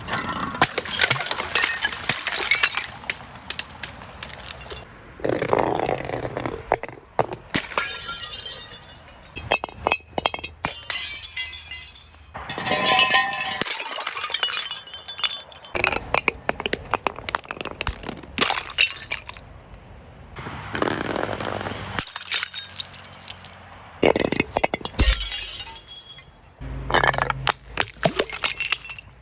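Glass breaking and clinking in a run of separate bouts of cracking, crunching and tinkling shards.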